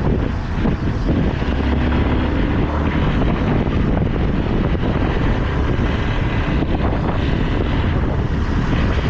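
Motorcycle on the move: a steady low engine and road rumble under heavy wind noise on the microphone.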